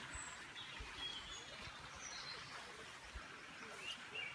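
Faint birdsong: scattered short high chirps and trills from several birds over quiet outdoor background noise, with a couple of dull low thumps.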